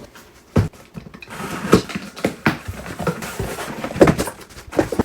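Irregular sharp clicks and light knocks of hands working inside a washing machine, taking out its old main control board.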